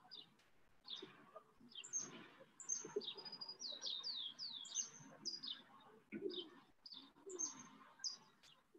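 Faint birds chirping: a string of short, high chirps, many falling in pitch, with a quick run of them around the middle.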